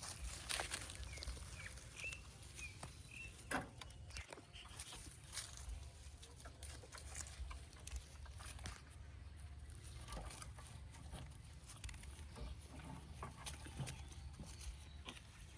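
Baby monkeys squeaking, a quick run of about five short high squeaks in the first few seconds, over scattered light taps and clicks of handling and a low steady hum.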